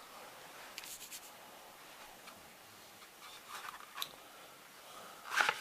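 Light handling noises from a model aeroplane being turned and touched: faint ticks and scratchy rubs, with a louder scrape shortly before the end.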